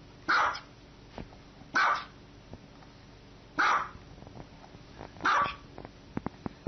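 Small white dog barking: four single barks, evenly spaced about every one and a half to two seconds, with a few faint clicks near the end.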